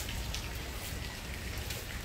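Steady rain falling, with a few short swishes of a straw hand broom sweeping a floor.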